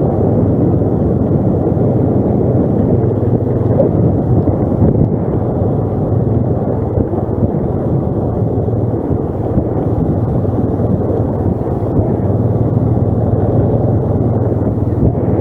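ATV engine running steadily under way, a constant low rumble.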